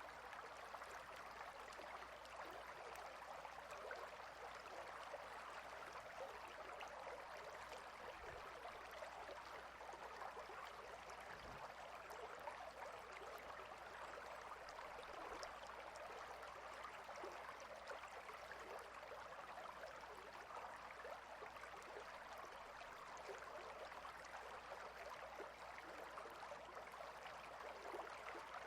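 Clear, shallow river running over and between rocks: a faint, steady rush of flowing water.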